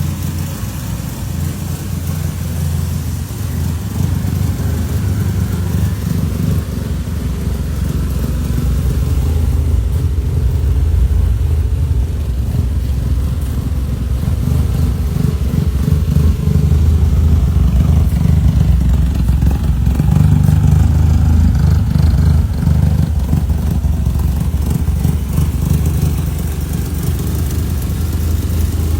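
A car engine running steadily and loudly, the sound strongest in the low range, growing a little louder a few seconds in.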